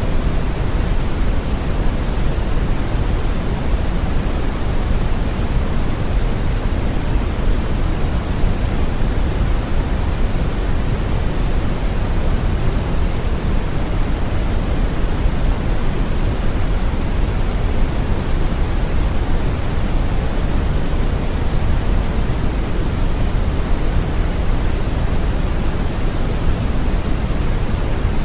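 Steady brown noise: a deep, even rushing hiss with most of its energy in the low end, unchanging throughout.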